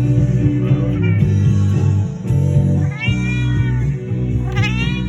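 Maine coon cat meowing twice, two drawn-out calls that rise and then fall in pitch, about a second apart, over loud bass and guitar music.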